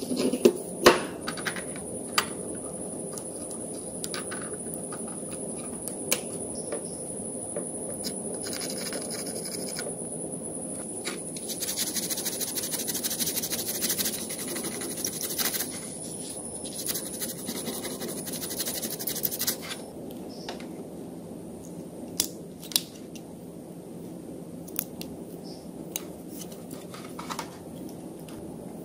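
Hand tools working on small phone parts: scattered sharp clicks and taps, with a long stretch of rapid scratchy snipping strokes in the middle, over a steady background hum.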